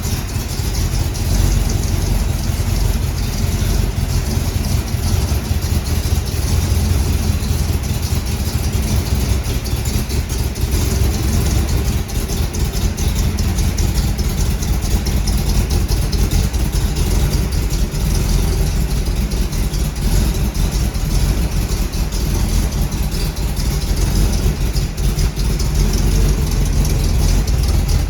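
The 350 small-block Chevrolet V8 of a 1939 Ford Super Deluxe running steadily with a deep, even sound.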